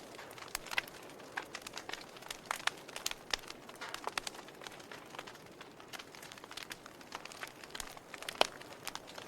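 Logs burning in a fireplace, crackling: irregular sharp pops and snaps over a soft hiss, with one louder pop near the end.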